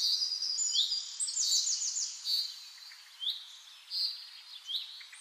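Small birds chirping: many quick, high chirps and short rapid trills, overlapping and repeating.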